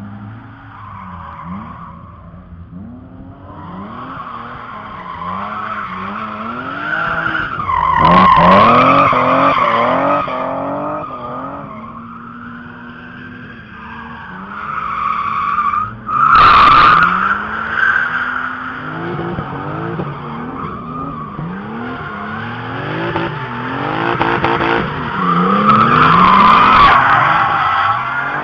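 Drift cars' engines revving up and down while their tyres squeal through long slides, the squeal swelling loudest about eight, sixteen and twenty-seven seconds in. A sudden sharp burst just after sixteen seconds.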